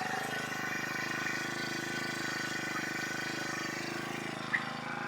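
An engine idling steadily, with one brief knock about four and a half seconds in.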